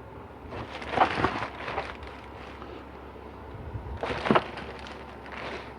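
Hands working on transmission pump parts: two short stretches of scraping and rustling, about a second in and again around four seconds in.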